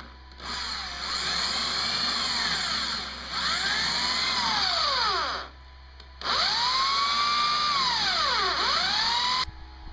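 Electric drill running in two long runs, drilling a hole, its motor pitch rising and then falling in each run as the speed changes.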